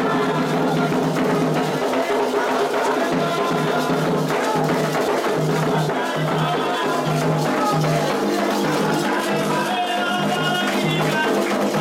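Candomblé ritual music for Xangô: steady hand-drumming on percussion with voices chanting over it.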